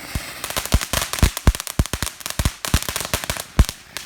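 Firecrackers going off in a rapid, irregular string of sharp bangs, dozens of them over about four seconds, then stopping just before the end.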